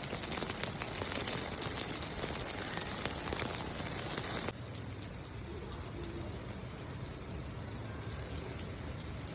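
Rain falling: a steady hiss full of small pattering drop ticks over a low rumble. The hiss turns noticeably quieter and duller abruptly about halfway through.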